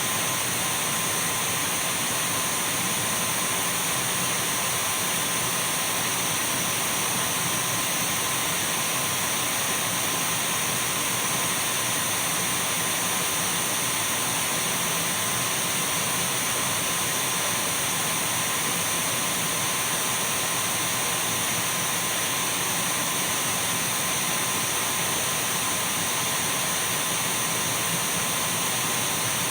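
Dyson V12 cordless stick vacuum cleaner running continuously: an even rush of air with a thin steady high whine from its motor.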